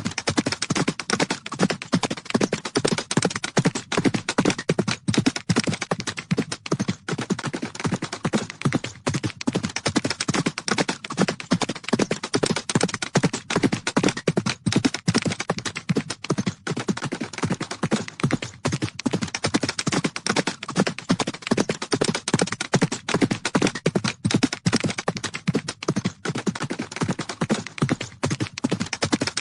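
Horses galloping: a dense, unbroken run of hoofbeats, fast and irregular with overlapping strikes.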